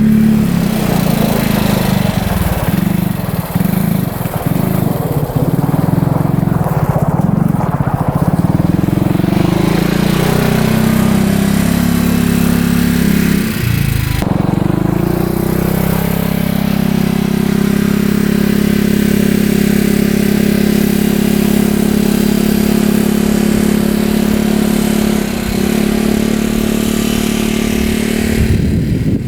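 Freshly rebuilt 2015 Polaris Ranger 570 UTV's single-cylinder engine running on a test drive. Engine speed rises and falls through the first half, drops briefly about halfway through, then holds steady.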